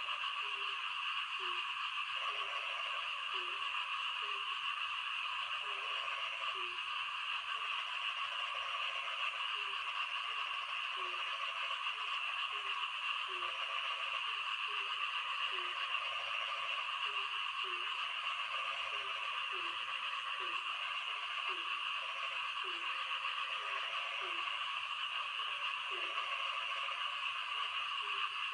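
Frogs calling during rain: short, low croaks repeating irregularly, about one or two a second, over a steady dense high-pitched chorus.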